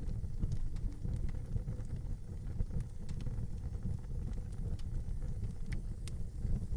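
Fire burning in a fireplace: a steady low rumble of flames with scattered sharp crackles and pops, a few louder pops near the end.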